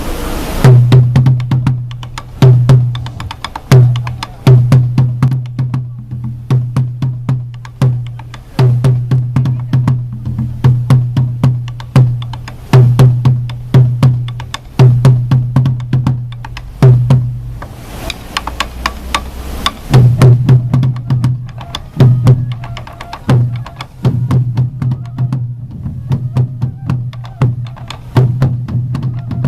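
Sansa odori taiko drums played together in a fast, driving rhythm: deep drum strokes with many sharp wooden clicks between them.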